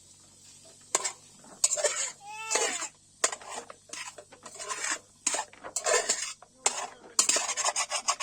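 Spoon scraping and stirring in a metal cooking pot, in irregular strokes that begin about a second in.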